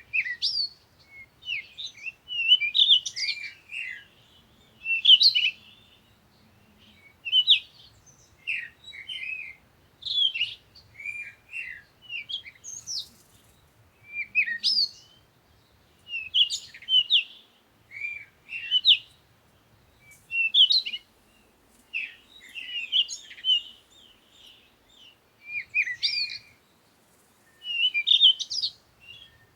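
Birds chirping and twittering in short, quick phrases, one after another with brief gaps between them.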